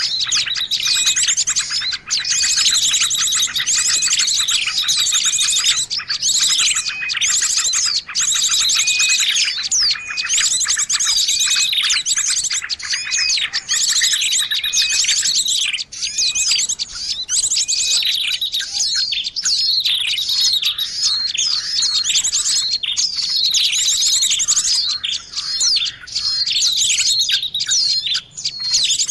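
A dense, noisy chorus of many small forest songbirds chirping and trilling over one another without pause: a bird-lure (pikat) recording made to draw small birds in close.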